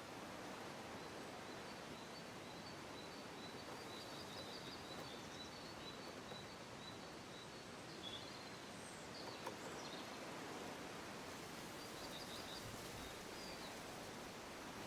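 Faint steady background hiss with a few faint high chirps of distant birds, and a single light click about nine and a half seconds in.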